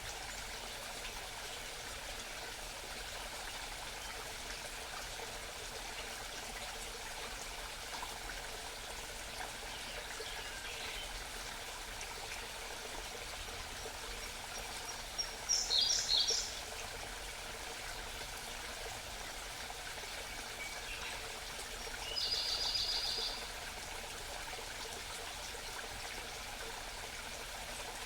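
A mountain stream babbling steadily, with wild birds singing over it: a short high call a little past halfway, the loudest sound, and a rapid trill about four-fifths of the way through.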